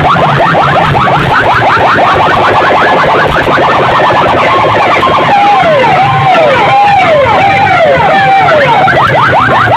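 Electronic siren and car-alarm style effects played very loud through a large DJ sound-system rig in a speaker competition. Rapid falling whoops give way to slower falling chirps, about two a second, from about five seconds in, then turn rapid again near the end, over a pulsing bass.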